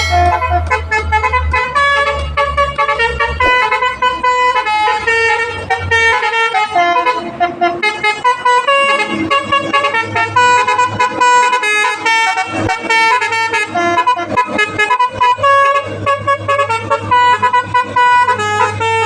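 A truck's multi-tone musical horn playing a tune, its notes stepping up and down in pitch, over a low engine drone that fades out after the first few seconds.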